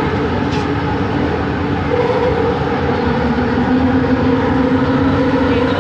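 Kelana Jaya Line train running between stations: rolling noise under the motor's whine, made of steady tones that change pitch about two seconds in. It is the original-motor sound the uploader calls weird.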